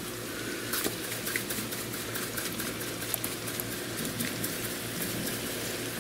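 Shredded potatoes frying in hot oil in a skillet: a steady sizzle with many small crackles and pops.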